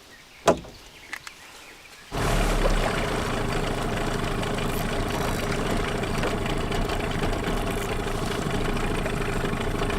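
A single sharp click, then about two seconds in a boat motor cuts in abruptly and runs steadily with a humming tone.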